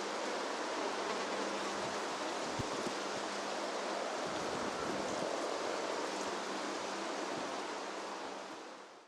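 Wind rustling through a field of green barley, a steady hiss of the swaying stalks that fades out near the end.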